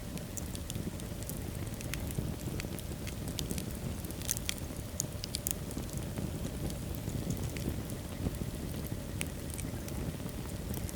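Wood fire in a fireplace crackling, with irregular sharp pops over a steady low rush of flames. A quicker cluster of pops comes around the middle.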